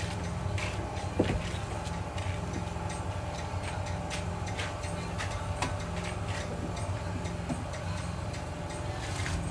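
Irregular sharp clicks and taps over a steady low hum, from work loosening an air-conditioner unit for removal.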